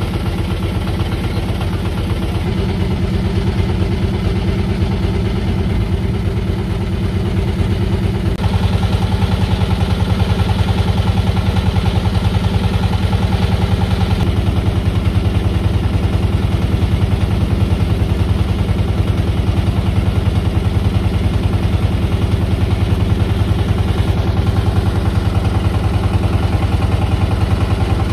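Motorcycle engine running steadily with a fast, even firing pulse; about eight seconds in it steps up louder as the throttle opens, then holds.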